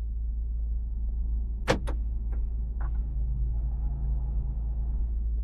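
Steady low drone inside the cabin of an MG ZS Hybrid+, with two sharp clicks close together a little under two seconds in and two fainter ticks shortly after.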